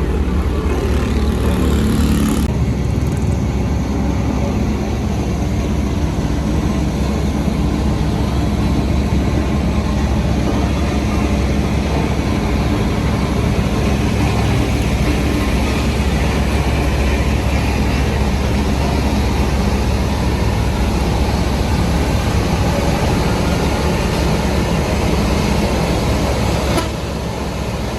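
Heavy diesel construction machinery running steadily with a deep, constant engine drone. The sound changes abruptly about two seconds in and again near the end.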